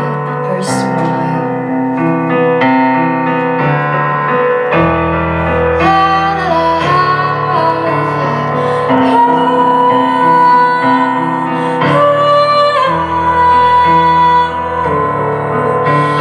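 A woman singing long held notes over keyboard chords and a low bass line.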